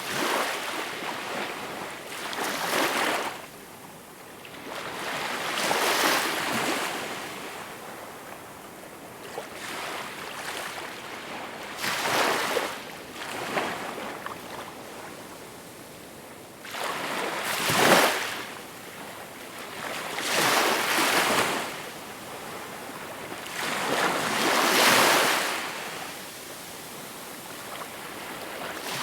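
Small waves breaking and washing up on a shore, one every few seconds at uneven intervals, each surge of rushing water building and then falling away.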